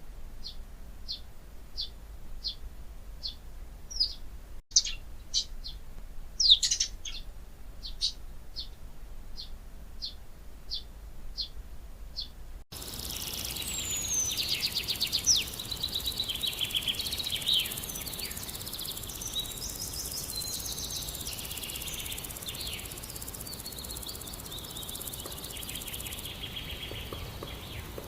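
A songbird repeating a short high chirp about twice a second, then, about halfway through, an abrupt change to a busier chorus of several birds with fast trills and chirps.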